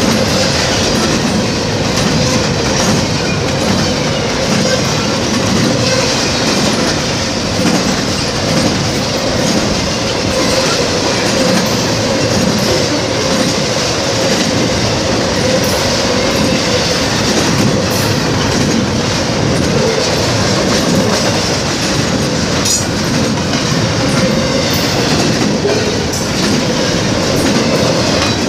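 Norfolk Southern intermodal freight cars, double-stack containers and trailers on flatcars, rolling past close by: a loud, steady rolling noise of steel wheels on rail, with occasional clicks over the joints and a faint steady whine underneath.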